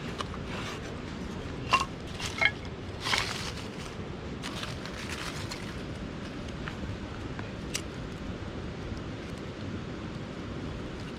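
A few sharp knocks and clinks, some with a brief ringing tone, then some rustling, over a steady low background rumble.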